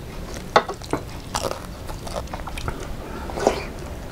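Close-up eating sounds: biting into and chewing fried fish with the mouth, sharp wet smacks and crunches coming irregularly, the loudest about half a second in and again about three and a half seconds in.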